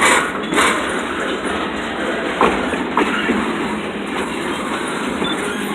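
Freight train's intermodal container cars rolling past: a steady rumble and rattle of steel wheels on rail, with a few sharp clacks as wheels pass over rail joints.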